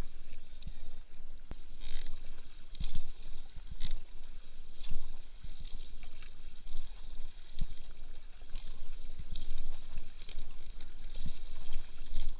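Kayak paddle strokes splashing in the water, roughly one a second, over a steady low rumble.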